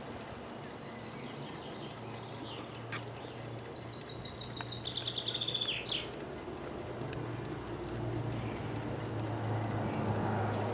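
A bird sings a short, rapid trill of repeated high notes about halfway through, dropping at the end, over a steady hiss and a low hum.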